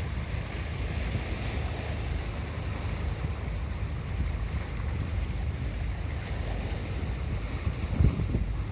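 Wind buffeting the microphone over a steady wash of water as a passenger ship pulls out of port. There is a brief louder gust about eight seconds in.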